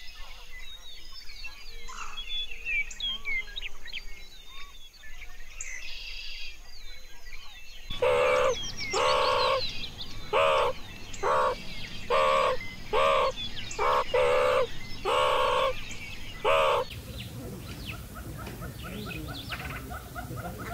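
Small birds chirping, then a run of about ten loud animal calls, each about half a second long and slightly arched in pitch, coming at a steady pace. Near the end the calls give way to quieter chirping and a fast trill.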